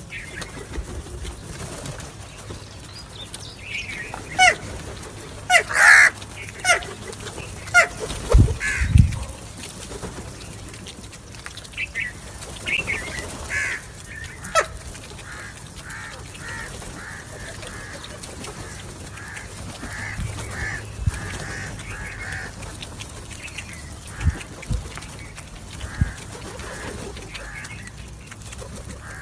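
Crows cawing in scattered bursts of calls, with a few low thumps in between.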